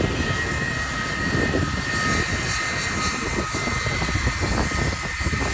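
Jet airliner engines running with a steady whine over a low rumble.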